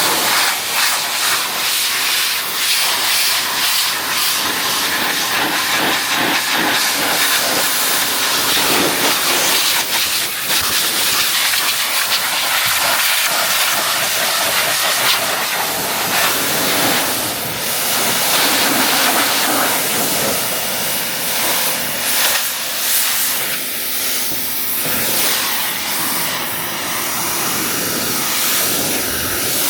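Pressure washer jet spraying water onto a car body: a steady loud hiss that swells and dips a little as the spray moves over the panels.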